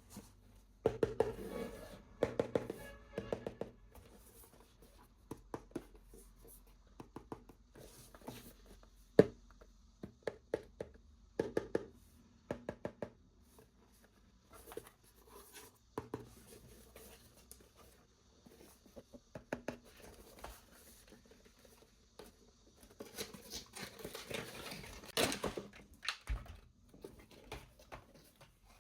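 Hands handling a plastic toy and its packaging: scattered clicks, taps and knocks, with a stretch of rustling and tearing of packaging near the end.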